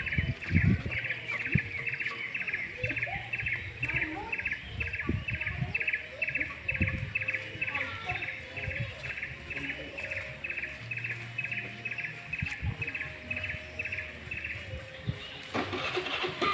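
A bird calling a long, even series of short chirps, about three or four a second, that stops near the end. Soft low thumps run underneath, and a rush of noise comes in just before the end.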